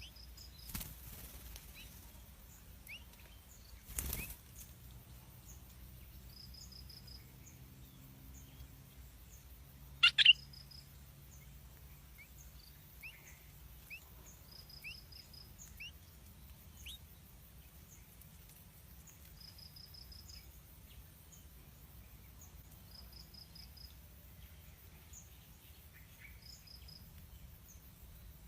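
Small birds chirping faintly with short rising notes, and a short high four-note trill repeating every few seconds. A low thump comes about four seconds in, and a loud brief double sound about ten seconds in.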